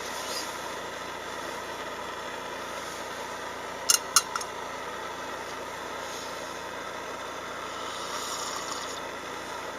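A steady mechanical hum, with three quick sharp clicks about four seconds in.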